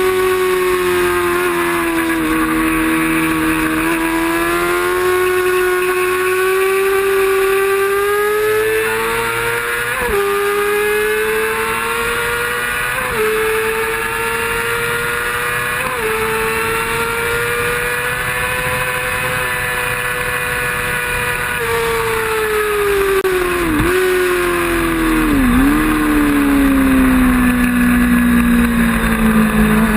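Road-racing motorcycle engine at high revs, its pitch holding and slowly climbing with a few brief dips. Over the last several seconds the pitch falls steadily, with two sharp dips along the way.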